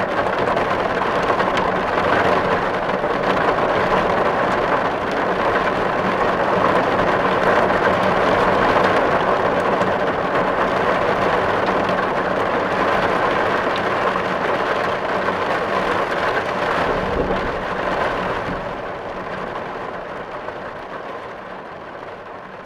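Steady heavy rain drumming on a metal tin roof, a dense patter of drops. From about 18 seconds in it fades out gradually.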